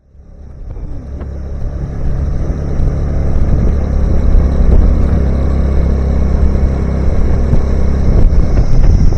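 Car driving on a road: a steady low rumble of engine and road noise, fading in from silence over the first two seconds.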